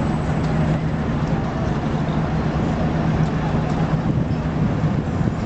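An engine running with a steady low drone over a wash of outdoor noise.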